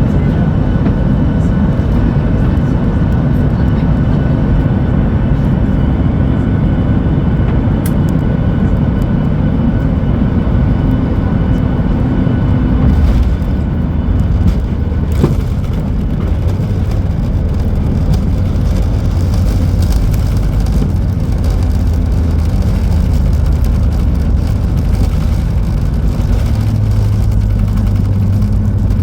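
Steady loud rumble of a Boeing 737-8200's engines and airflow heard from inside the passenger cabin, with a few short knocks about halfway through.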